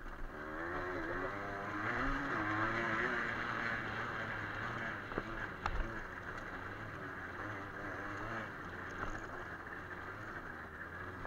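A 50cc two-stroke enduro motorcycle engine running while the bike is ridden over a rough gravel track. Its pitch rises and falls as the throttle is worked, and there are a couple of sharp knocks a little past halfway.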